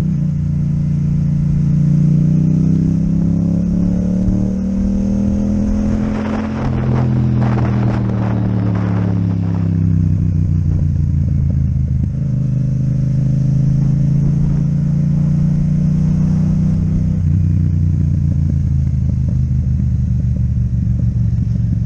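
Yamaha MT-07's parallel-twin engine through an Akrapovic exhaust, heard from the moving bike, its note rising and falling with the throttle. A burst of clattering comes in about six seconds in and lasts around four seconds.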